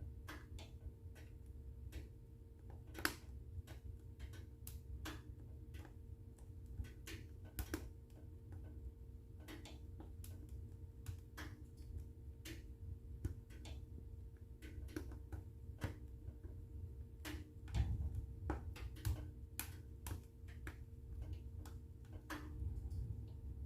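Wood fire in a fireplace crackling, with irregular sharp pops over a low rumble of the flames and a faint steady hum. A louder pop comes about three seconds in, and the rumble swells briefly past the middle.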